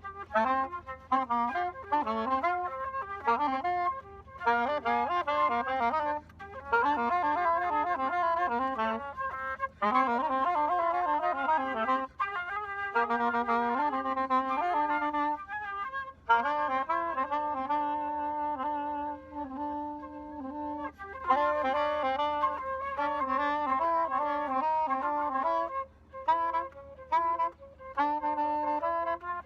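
Live instrumental music from two musicians jamming: quick melodic runs of notes broken by short pauses, with a stretch of longer held notes in two parts a little past the middle.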